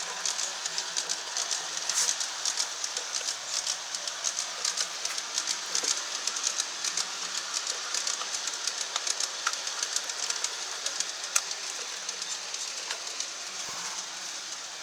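G scale model trains rolling along the track: a steady rushing of wheels and motors with many irregular light clicks from the wheels on the rails.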